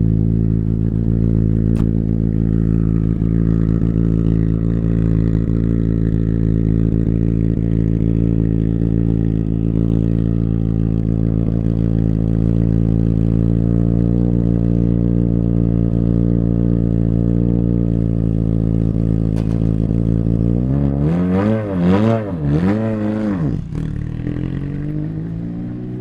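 Rally car engine idling steadily, then revved in a few quick throttle blips near the end, each rising and falling in pitch, before dropping back quieter.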